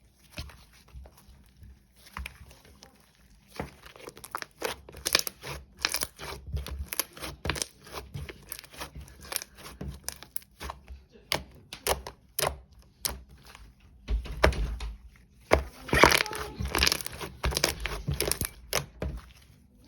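Packaging being handled: crinkling and tearing of wrapper or lid material, with many quick crackles and light clicks that grow busier partway through and loudest near the end.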